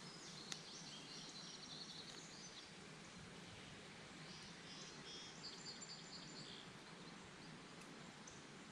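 Quiet outdoor background hiss with a small songbird singing two high, rapid trilling phrases of about two seconds each, a couple of seconds apart. A single sharp click sounds about half a second in.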